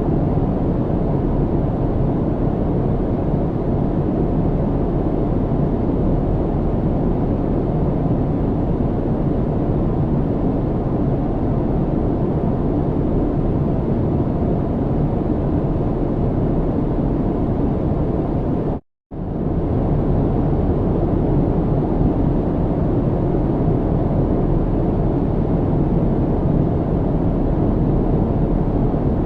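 Steady, low-pitched cabin noise of an airliner in flight: the even hiss and drone of engines and airflow heard from inside the cabin. About two-thirds of the way through, it drops out to silence for a fraction of a second, then resumes unchanged.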